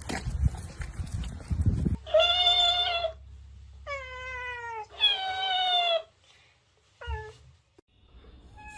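A cat meowing: three drawn-out meows of about a second each, the middle one sliding down in pitch, then a short one. Before the meows there are about two seconds of rustling and knocking.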